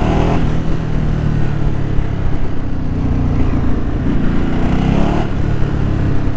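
Ducati Multistrada 1200 S's L-twin engine running under way, with its exhaust valve removed so the exhaust flows freely, over road and wind noise. Its note shifts briefly near the start and again about five seconds in.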